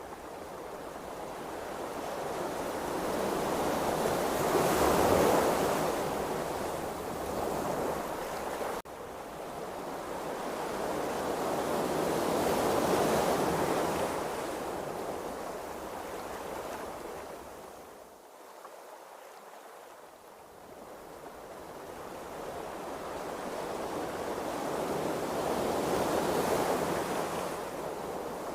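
Ocean waves rushing and washing in slow surges, swelling and fading about every eight to ten seconds.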